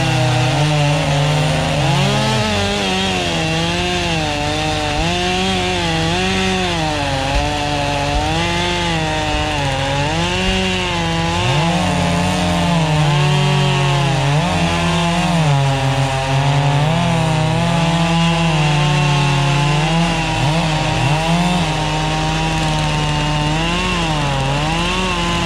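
Holzfforma gas chainsaw cutting through a log. Its two-stroke engine runs hard under load, and the pitch dips and recovers again and again as the chain bites into the wood.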